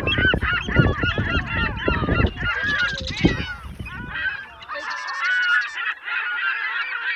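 A flock of geese honking, many calls overlapping. A low rumble runs under the calls for the first four seconds or so, then stops.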